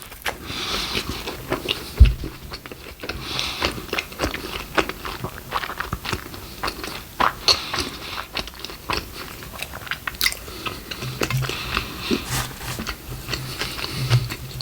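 A person biting into and chewing crunchy fast food close to the microphone: a dense, irregular run of crunches and crackles, with a single low thump about two seconds in.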